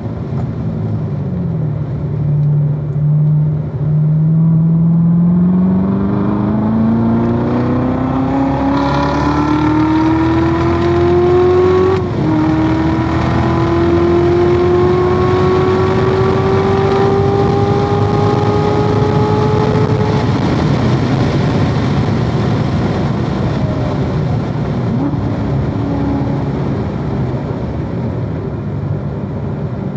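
2016 Corvette Z06's supercharged 6.2-litre V8 under hard acceleration, its pitch climbing steadily, with a quick upshift about twelve seconds in and a further climb. A little after halfway the throttle comes off and the engine note gives way to steady wind and tyre noise.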